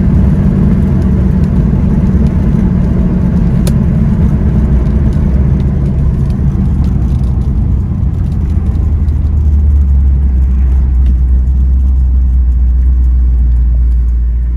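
1978 Chevrolet Corvette's V8 engine running with a loud, deep exhaust rumble, its note settling steadier and lower about two-thirds of the way through.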